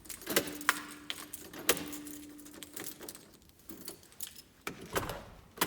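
A bunch of keys jangling and clicking, in irregular sharp chinks. A low steady hum runs underneath from about half a second in until about three seconds.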